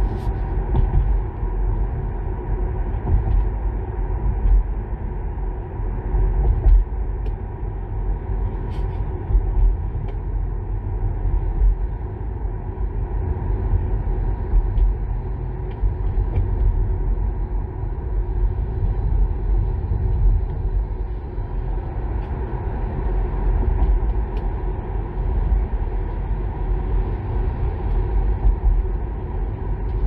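Steady low rumble of road and tyre noise inside the cabin of a Kia Niro EV driving at city speed, with a few faint clicks.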